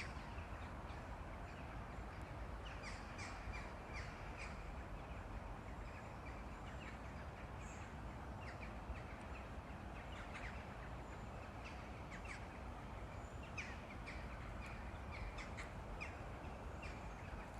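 Morning birdsong: many short bird chirps and calls scattered irregularly over a steady background of outdoor ambient noise.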